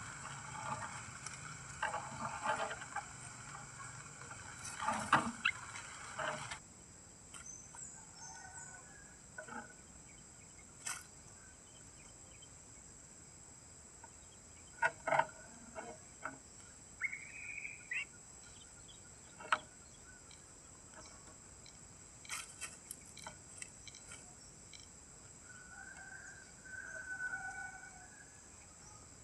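Scattered short bird calls and clicks over a steady high-pitched hum, with a low rumble that cuts off about six seconds in.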